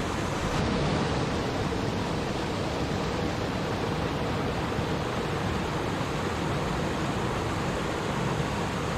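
Flowing stream water rushing and babbling steadily.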